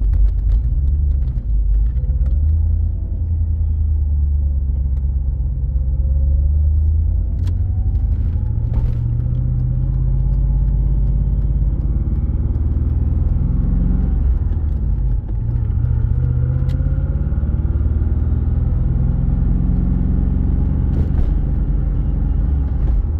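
Twin-turbo LS V8 engine running with a deep low rumble while the car is driven forward and backed up, its pitch rising and falling several times with the throttle.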